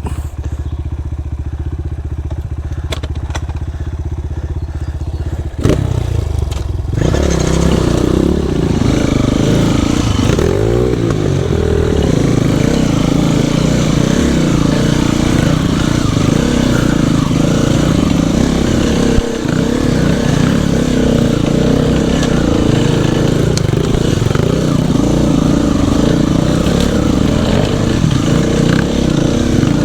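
Dirt bike engine idling, then about six seconds in it revs up and pulls away, running on under load as the bike rides the trail.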